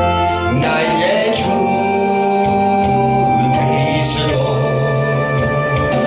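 Gospel song with singing over an electronic organ accompaniment, the voices holding long notes.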